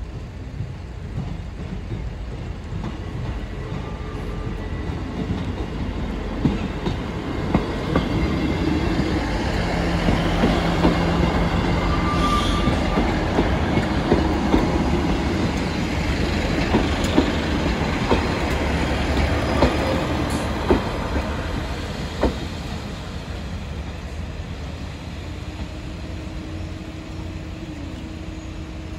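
A train passing over the level crossing. Its rumble builds over several seconds, then a run of sharp clicks comes as the wheels cross rail joints, and the sound fades away in the last third.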